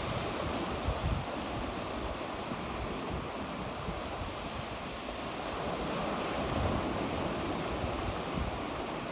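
Sea waves breaking and washing on the shore, a steady surf wash that swells a little past the middle, with low wind rumble on the microphone.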